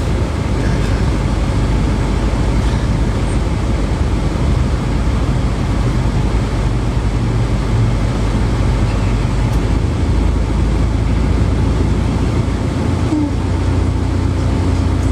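Steady low rumble of a vehicle in motion, heard from inside. A faint steady hum joins it near the end.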